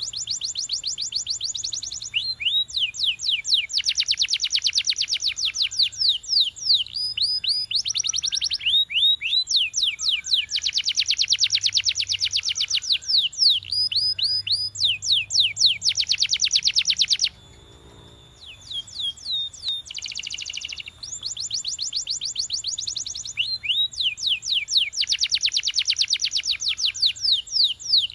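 Domestic canary singing: long, fast trills of rapidly repeated notes, broken by short gaps and one brief pause about two-thirds of the way through.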